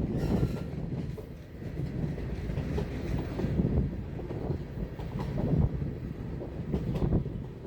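Train rolling past on the rails: a steady low rumble of wheels with irregular clanks and knocks.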